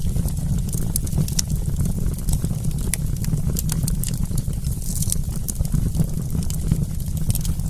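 Wood campfire crackling: many small irregular pops and snaps over a steady low rumble.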